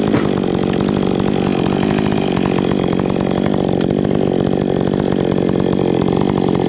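Gas chainsaw running at high revs, cutting through wood.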